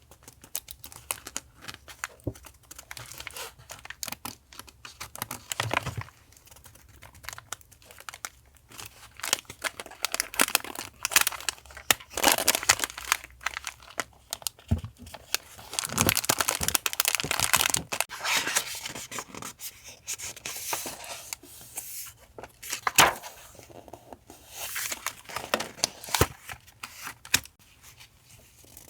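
Paper being torn and crinkled by hand, in irregular rustling bursts with small clicks.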